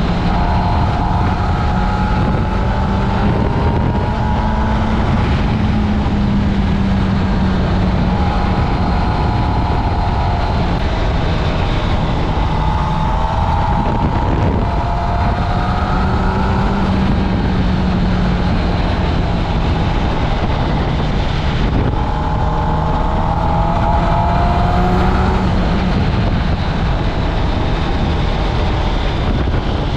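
2024 Kawasaki Ninja ZX-10R's inline-four engine through its stock exhaust, riding along. Its note climbs in pitch and drops back several times as the bike accelerates and shifts gears.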